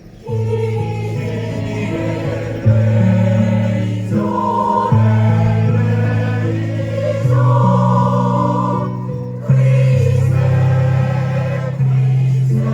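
Choir singing a song over held low accompaniment notes that change every second or two; the music comes in about a third of a second in.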